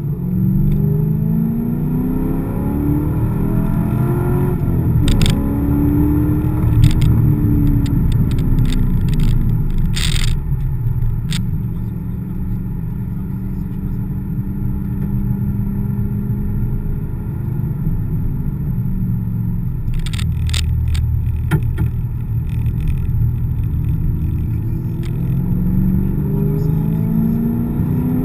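Chevrolet Corvette C5's V8 heard from inside the cabin under hard acceleration, the revs climbing at the start, holding a steadier pitch through the middle and climbing again near the end. A few short sharp clicks and knocks come through around the middle.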